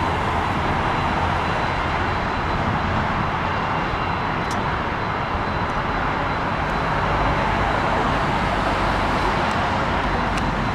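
Jet airliner engines running at take-off power: a steady, loud rush of engine noise with a faint high whine over it.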